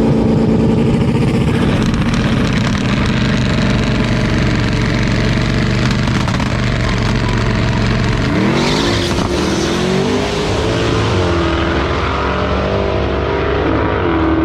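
Drag-racing cars accelerating hard at full throttle down the strip: one engine holds a high steady note, then about eight seconds in a second engine note rises and climbs through gear changes, with a short hiss as it starts.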